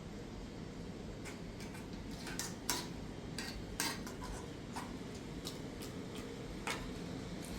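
Scattered light clinks and taps of kitchenware, about eight irregular strikes, over a steady low background rumble.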